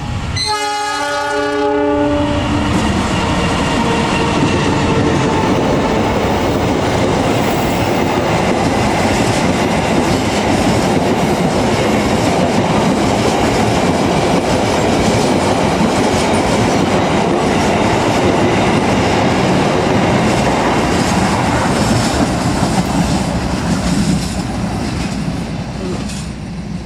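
Passenger train's locomotive horn sounds one blast of about two seconds as the train approaches, then the train runs straight through the station without stopping: a long, steady rumble of wheels on rail with clickety-clack, easing as the last coach passes near the end.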